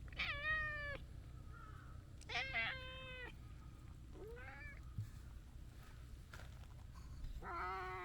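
A cat meowing four times, each call about a second long, the third shorter and fainter.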